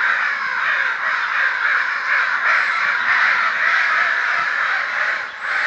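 A dense chorus of many birds calling at once, the calls overlapping without a break.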